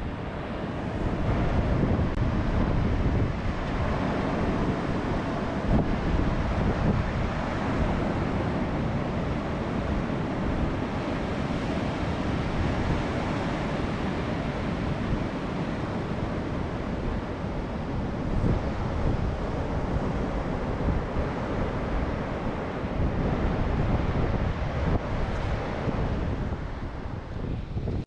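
Ocean surf breaking with wind buffeting the microphone: a steady, loud wash of noise that swells and falls.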